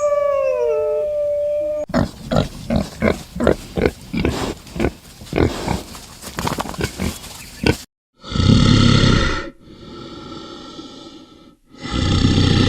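A drawn-out howl fades out about two seconds in, followed by a pig grunting in quick repeated short grunts for about six seconds. After a brief silence come two loud, harsh animal calls about three seconds apart.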